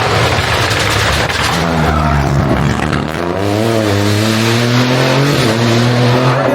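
Rally car engine revving hard on a gravel or tarmac stage, its pitch climbing and dropping with several gear changes, with a short lift about three seconds in before it pulls up again.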